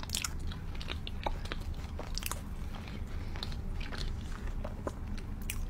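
Close-miked chewing of pizza, with irregular crunchy clicks of crust and cheese being bitten and chewed.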